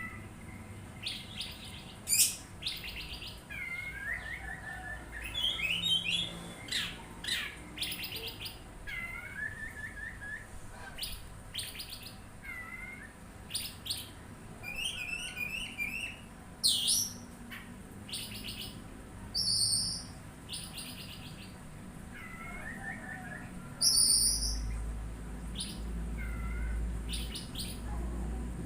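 Oriental magpie-robin singing a varied song of whistled glides, quick chirps and trills, with a high two-part call repeated every few seconds in the last part. A low hum joins in near the end.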